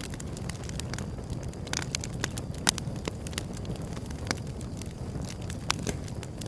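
Wood fire burning, with irregular crackles and sharp pops over a low steady rumble; the loudest pop comes a little under three seconds in.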